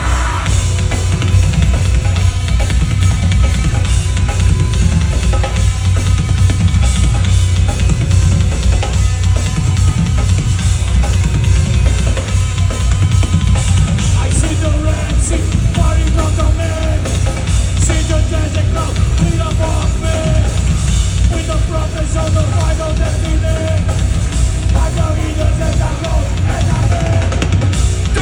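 Heavy metal band playing loud and continuously, with the drum kit pounding out a dense beat under bass and guitars; a repeating guitar riff stands out from about halfway through.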